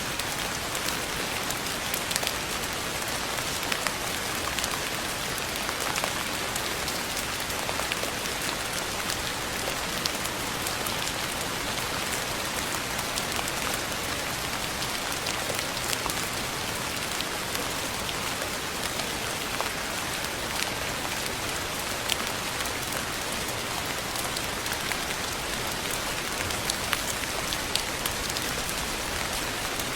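Steady rain falling, a constant hiss with many individual drops pattering and ticking throughout.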